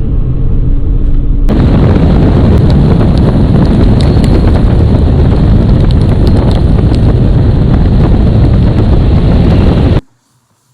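Four-wheel-drive pickup truck driving through snow: a loud, distorted rumble of engine and road noise that overloads the microphone, with scattered clicks. It cuts off suddenly near the end.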